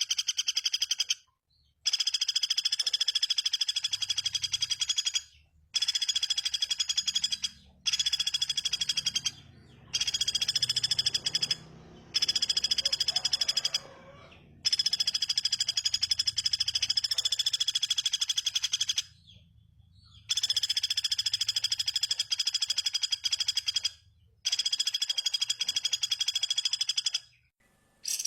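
A small songbird's rapid, buzzing rattle-trill, held at a steady pitch and repeated in about nine phrases of one to four seconds, each cutting off abruptly.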